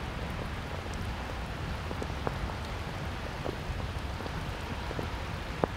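Steady rain falling on floodwater, a constant hiss with scattered individual drop ticks.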